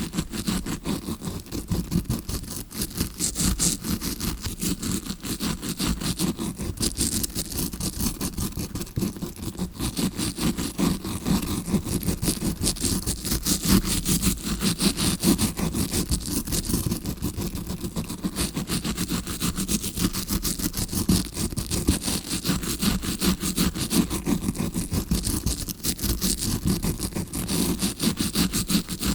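Tawashi scrubbing brush scratched rapidly and continuously right against the microphone, many quick strokes a second. It is a fake ear-cleaning sound, meant to imitate ear cleaning heard from the eardrum side.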